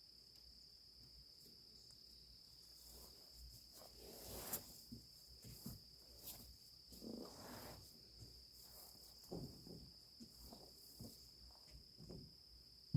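Near silence with a faint steady high-pitched tone, and faint scattered knocks and scuffs from about three seconds in, the clearest about four and a half seconds in.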